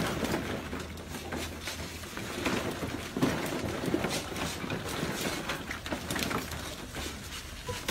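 Plastic ball-pit balls clattering and rustling as golden retriever puppies scramble through a plastic kiddie pool full of them: a busy, irregular run of light clicks.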